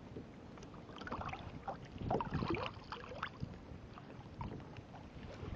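Water splashing and lapping against a kayak, with some wind on the microphone; the splashing is loudest about two to three seconds in.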